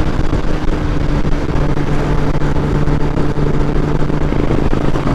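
Kawasaki Ninja ZX-10R's inline-four engine cruising at a steady pitch, with heavy wind noise from riding at speed.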